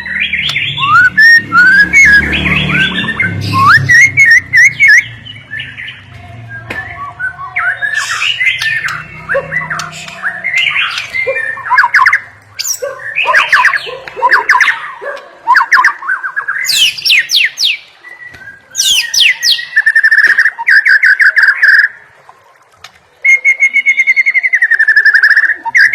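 White-rumped shama (murai batu) singing loudly, a varied string of whistled phrases and quick slurred notes. Near the end come two runs of rapid, even trills. A low hum sits under the first half.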